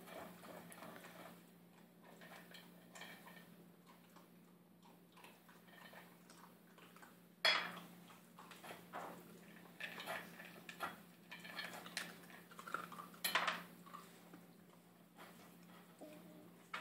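Puppy eating dry food from a bowl: irregular small clicks and clinks of kibble and bowl, with a sharper knock about halfway through and a busier run of clicks after it.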